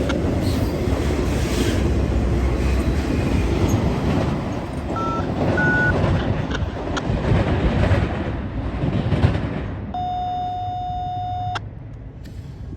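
Freight train rolling past, with a steady rumble and wheel-on-rail noise that fades after about ten seconds and two brief high squeals around the middle. Near the end a single steady high-pitched tone sounds for about a second and a half, then cuts off sharply.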